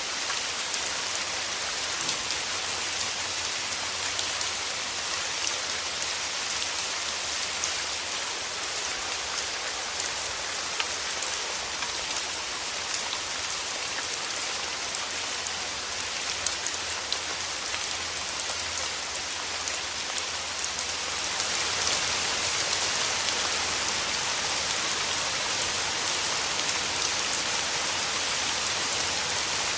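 Steady rain falling, an even hiss full of fine pattering drops that swells a little about two-thirds of the way through.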